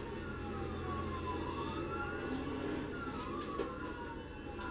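Police car siren wailing in slow rising and falling sweeps, two wailing tones crossing each other, over a steady low engine and road rumble.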